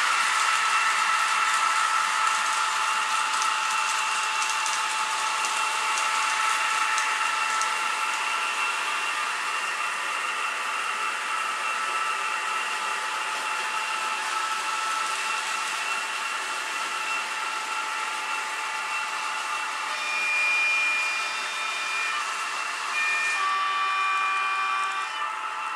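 Fleischmann model diesel locomotive's DCC sound decoder playing a diesel engine sound through its tiny onboard speaker, a steady thin drone with no bass. Near the end, higher tones come and go on top of the drone.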